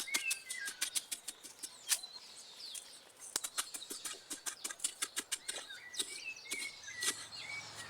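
Digging into damp soil by hand to cut a tunnel between two fire holes: a rapid, irregular run of sharp scrapes and stabs of a tool in the earth. Birds chirp faintly throughout.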